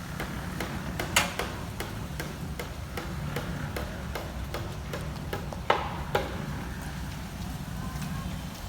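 A regular series of sharp ticks, about two or three a second, over a steady low rumble; the ticks stop about six seconds in, after two louder clicks.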